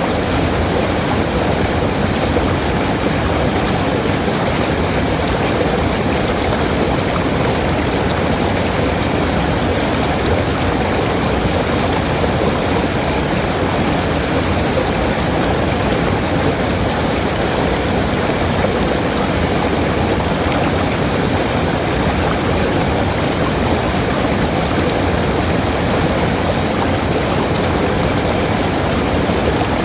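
Waterfall: falling water rushing in a steady, unbroken roar, heavy in the low end.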